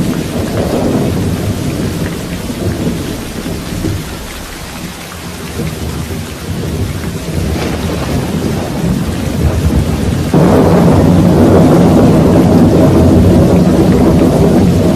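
Steady rain with thunder rumbling low underneath. The rumble eases off in the middle, builds again, and jumps suddenly louder about ten seconds in.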